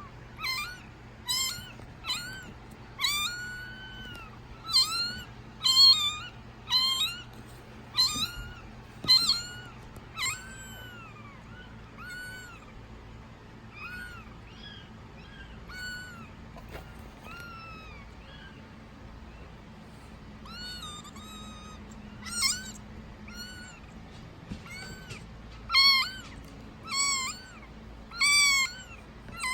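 A kitten just over a week old mewing over and over, short high-pitched cries about once a second, hungry before its milk feed. The cries are loud at first, grow softer in the middle and get loud again near the end.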